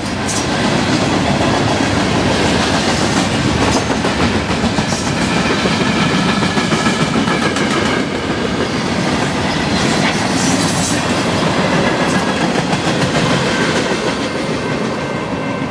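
Freight train of tank cars rolling past close by: a steady, loud rumble of steel wheels on the rails with the clickety-clack of wheels over the rail joints and scattered sharp clicks.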